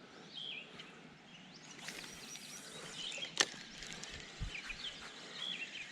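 Small birds chirping in short calls over a steady background hiss, with one sharp click about three and a half seconds in.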